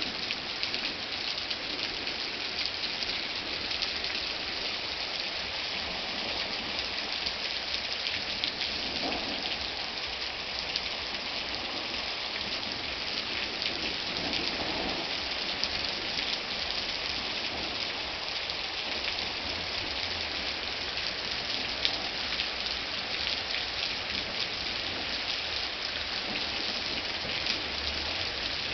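Steady rain falling, a dense patter of drops on hard surfaces. Faint low rumbles of thunder swell twice, around nine and fifteen seconds in.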